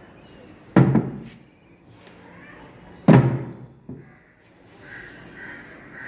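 Two heavy thuds about two seconds apart, each dying away over half a second, with a lighter knock just after the second.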